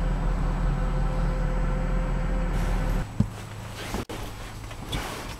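Steady low engine hum that cuts off abruptly about three seconds in, leaving a quiet background with a few faint clicks.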